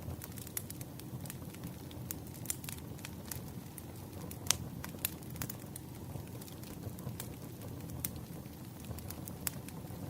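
Wood fire crackling: irregular sharp pops and snaps over a low steady rumble, with one louder pop about four and a half seconds in.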